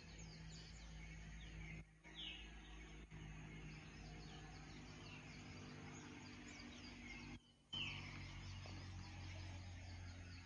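Several birds calling with short, downward-sliding chirps over a faint, low, steady hum. The sound drops out briefly about two seconds in and again about seven and a half seconds in.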